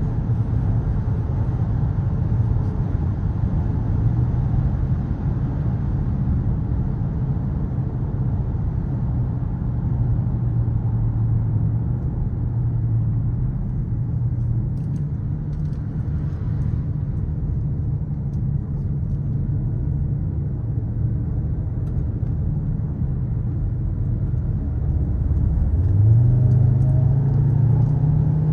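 Skoda Kodiaq RS's 2.0 TSI turbocharged four-cylinder engine running at steady, low revs under light load, with road noise. Near the end the engine note rises quickly as the car accelerates, holds for a couple of seconds, then drops back.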